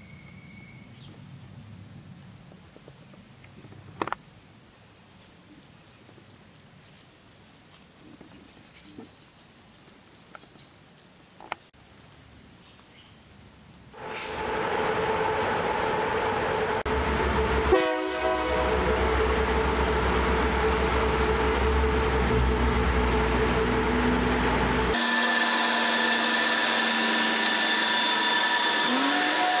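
Insects chirping steadily, then from about halfway a Thai diesel passenger train running at the station, its engine loud and steady with pitched tones. Near the end the sound shifts abruptly to higher steady tones, the train's sound played back sped up.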